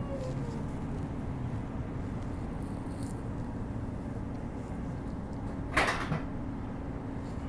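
Steady low rumble of a Bombardier B-series electric suburban train heard from inside the carriage while it runs, with a short, sharp rattle about six seconds in.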